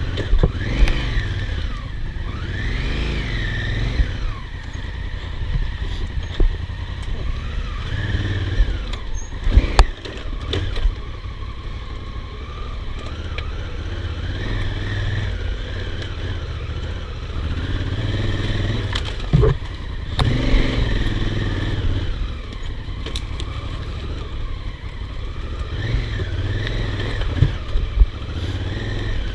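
Honda Africa Twin's parallel-twin engine revving up and down with the throttle as the bike is ridden along a rough dirt trail, with occasional sharp knocks, the sharpest about ten seconds in.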